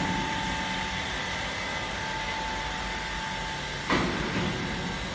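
Steady machinery noise with a thin whine, broken by a single clunk about four seconds in, where the whine stops.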